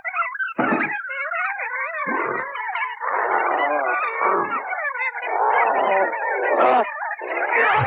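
Warbling, croaking, animal-like vocal sounds with a constantly wavering pitch, in a run of uneven stretches with short breaks.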